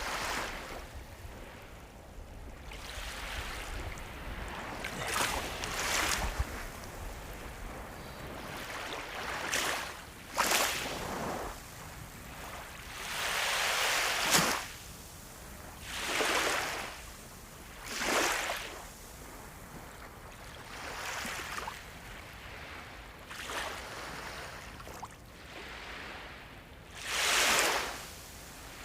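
Sea waves breaking and washing in, a swell of surf every two to four seconds over a steady wash of water, the biggest about halfway through and near the end.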